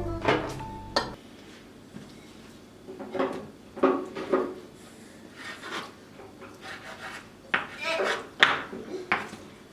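Irregular short rubbing and scraping strokes with a few light knocks, as of hands handling wooden and kitchen items; the strokes come in two clusters, near the middle and near the end.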